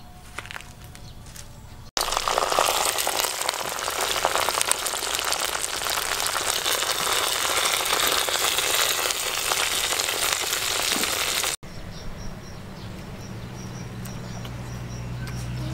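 Pieces of duck deep-frying in a pot of hot oil: a loud, dense crackling sizzle that starts abruptly about two seconds in and cuts off suddenly about ten seconds later.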